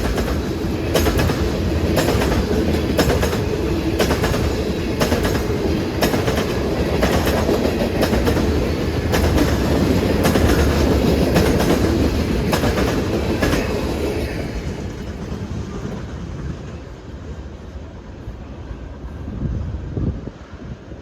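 Train rolling past, its wheels clicking in a steady rhythm over rail joints with a heavy rumble; the sound fades away after about fourteen seconds as the train moves off.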